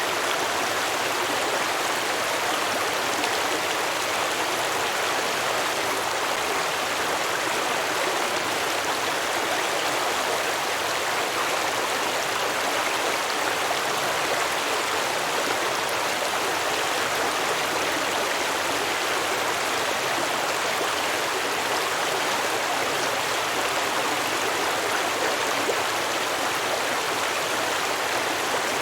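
A small stream flowing and babbling over rocks: a steady, even rush of water with no change in level.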